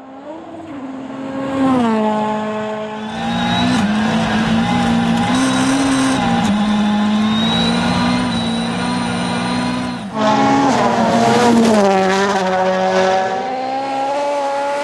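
Rally car engines at high revs, the note building up over the first couple of seconds and then holding loud with its pitch stepping up and down. About ten seconds in the sound breaks off sharply and another loud engine takes over.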